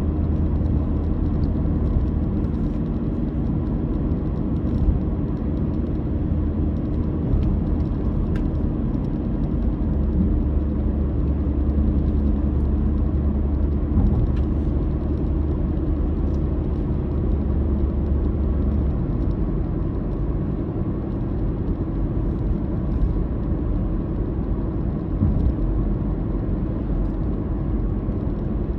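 Car driving along, its motor droning steadily with road noise underneath. The deepest part of the hum eases about two-thirds of the way through.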